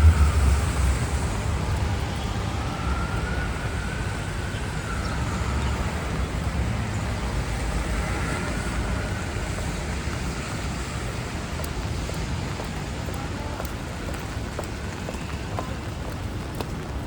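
Steady traffic on a rain-wet city avenue: tyre and engine noise, with a heavy vehicle's low rumble fading away in the first second.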